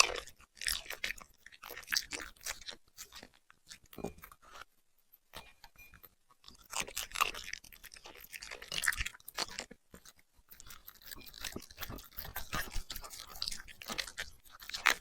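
A puppy chewing and crunching food: irregular runs of quick crunchy bites, with brief pauses about a third and two-thirds of the way through.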